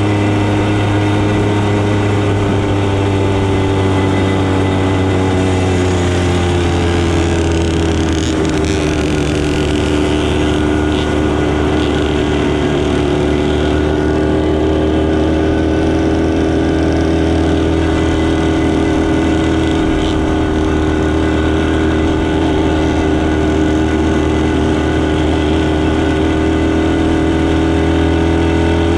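Motorcycle engine running steadily at cruising speed, its note easing down slightly about eight seconds in and then holding level.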